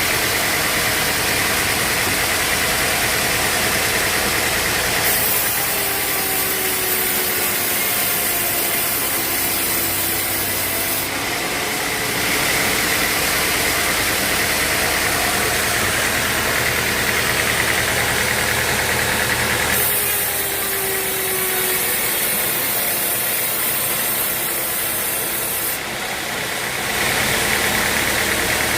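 Sawmill machinery running with a steady, engine-like drone and hiss. The sound changes character for two stretches of several seconds each, with a faint gliding tone in them.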